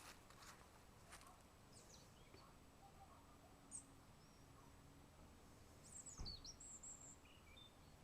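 Faint birdsong: a few scattered high chirps, then a brief twittering phrase about six seconds in, over a low background hush.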